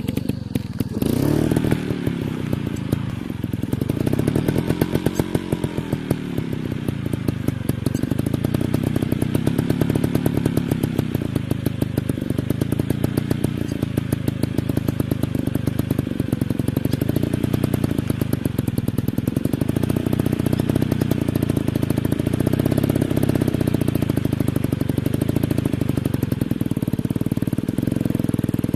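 Dirt bike engine running hard, its pitch rising and falling again and again as the throttle is worked, with a brief noisy burst about a second in.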